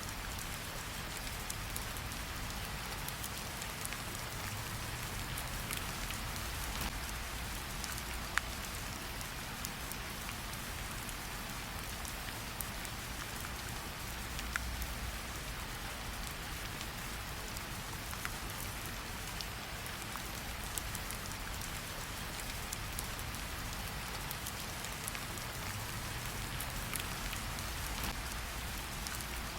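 Steady rain hiss mixed with a campfire crackling, with scattered sharp pops and clicks throughout.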